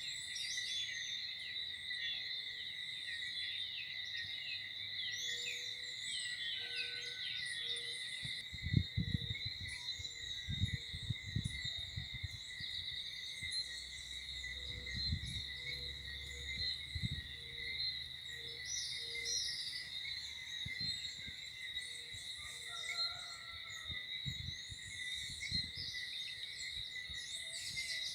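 Dawn chorus: a steady, high insect chorus, with birds chirping and calling over it, most busily in the first several seconds. Irregular low rumbles come and go through the middle.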